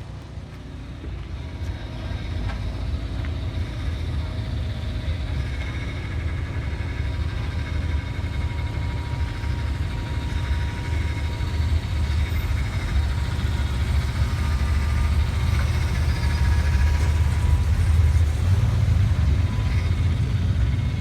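A car engine's low rumble, growing steadily louder.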